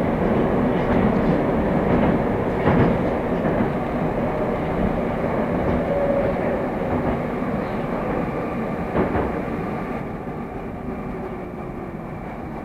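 Moscow metro train running along the track, a steady rumble with occasional clicks of the wheels over rail joints, growing gradually quieter as the train slows for the next station.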